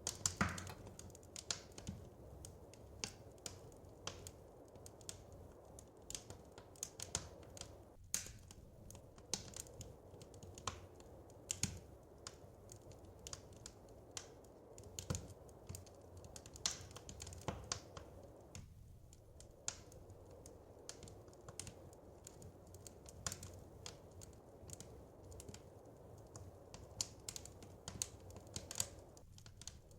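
Wood fire crackling in a fireplace: irregular sharp pops and snaps, several a second, over a soft steady low noise, with a louder cluster of pops just after the start.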